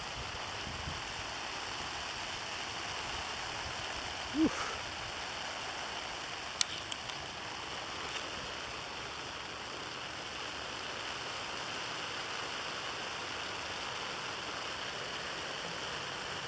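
Steady hiss of a graupel and sleet mixture falling and pattering on surfaces, probably with some rain mixed in. A brief pitched sound comes about four and a half seconds in, and a sharp click about two seconds later.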